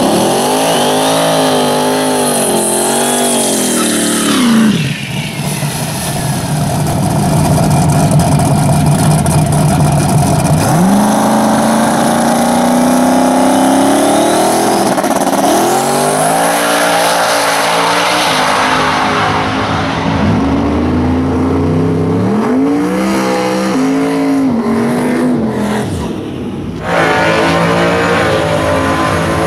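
Fox-body Mustang drag car's engine revving hard in rising and falling blips, then held at high revs for several seconds, then more short blips. Near the end the sound switches abruptly to another loud drag car engine running.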